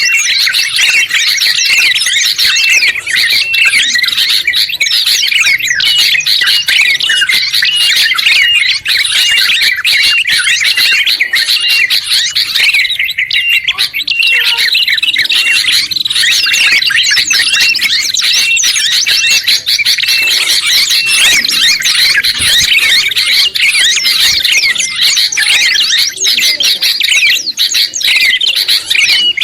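Dense, continuous chorus of overlapping songbird chirps and calls, a mixed recording of bulbuls, a tailorbird and white-eyes calling together. The short repeated notes pile on each other without a pause.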